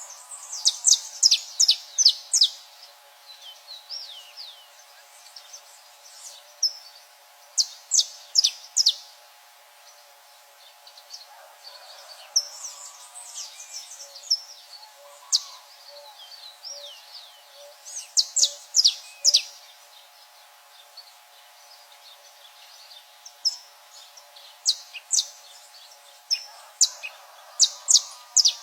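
Saffron finch singing: runs of several sharp, high chips and short slurred notes in quick succession, repeated every few seconds.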